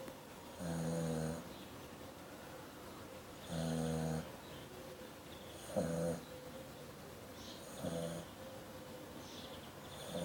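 Dog snoring: four short, pitched snores about two seconds apart, each lasting under a second.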